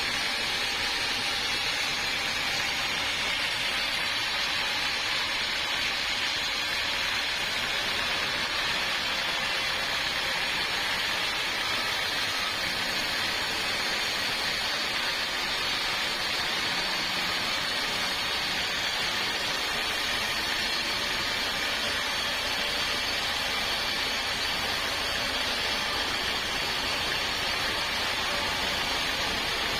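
Sawmill saw running through a large log, a steady, even hiss with no breaks.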